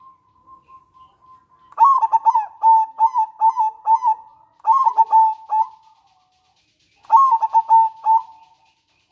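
Zebra dove (perkutut) cooing: a quick run of short staccato coos, then a second shorter burst a little over a second later.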